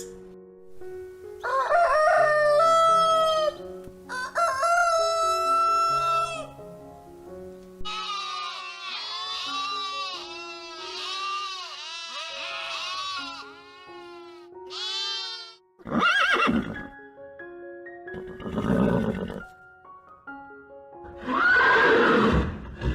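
A series of animal calls over background music: two long pitched calls, then a quick run of many short rising-and-falling calls, then three rougher, harsher calls.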